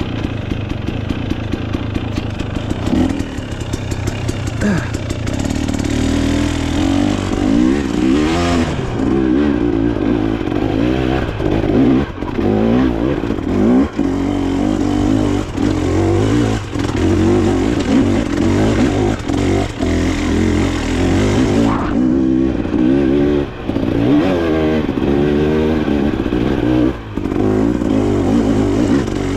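Off-road dirt bike engine under way, its revs rising and falling over and over as it is ridden hard. Frequent short knocks and rattles run through it.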